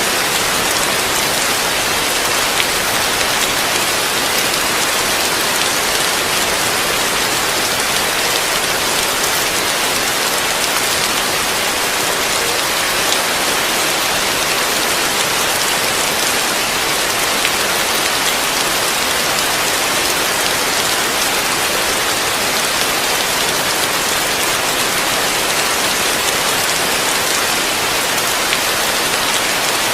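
Heavy rain falling on a roof, heard from beneath it: a steady, dense hiss of drops that does not let up.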